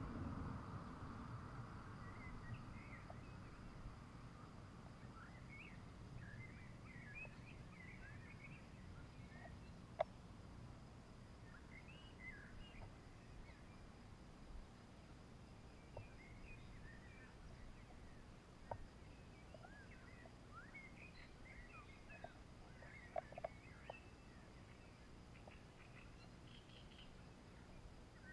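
Faint outdoor ambience of birdsong: many short chirps scattered throughout over a low rumble, with a few sharp clicks.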